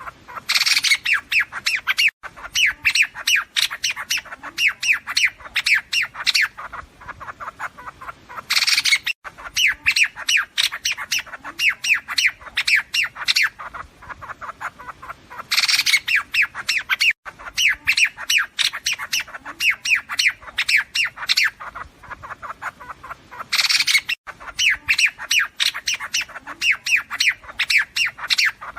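Liếu điếu bird call recording played on a loop as a trapping lure: the same loud phrase of rapid harsh chattering notes repeats four times, about every seven to eight seconds.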